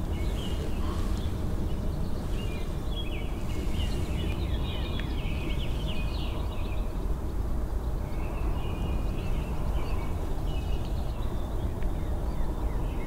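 Small birds chirping in quick, short repeated notes, in two spells, over a steady low rumble.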